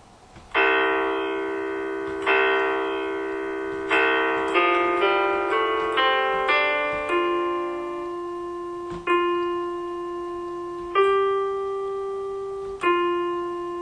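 Intro music on solo piano. Three held chords are followed by a quick run of single notes about four seconds in, then single notes held for about two seconds each.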